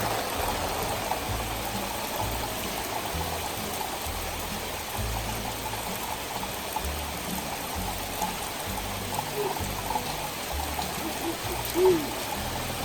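Storm runoff running fast, a steady rush and trickle of water. A short, low hooting note comes once about three quarters of the way in and again, louder, near the end.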